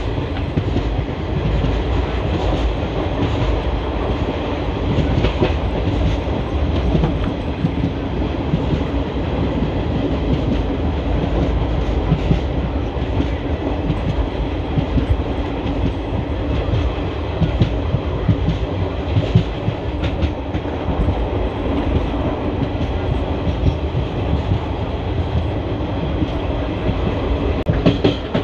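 ICF passenger coach running along the track, heard from a window seat: a steady rumble of the wheels on the rails with scattered clicks and knocks from the track.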